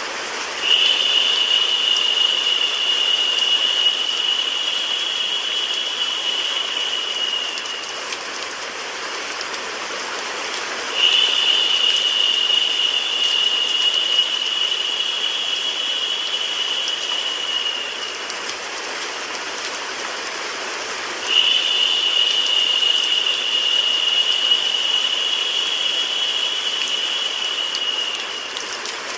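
Steady rain and white noise from a sleep-sound track. Three times, about ten seconds apart, a louder, higher-pitched layer comes in sharply, lasts about seven seconds each time, and fades out.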